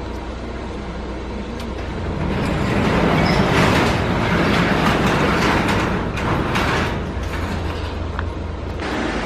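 Road and engine noise inside a moving car: a steady low rumble that swells louder for several seconds in the middle, with a few light clicks and rattles.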